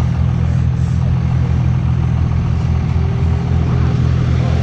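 Truck engine idling close by: a steady, loud low rumble with an even pulse.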